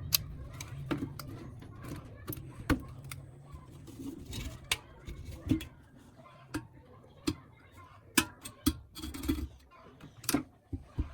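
Irregular sharp clicks and light knocks of hard objects being handled, about one or two a second, over a low rumble that fades away in the first couple of seconds.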